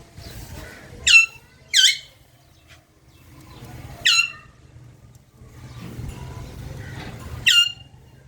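Pet parrot giving four short, loud screeches: two close together about a second in, one about four seconds in and one near the end.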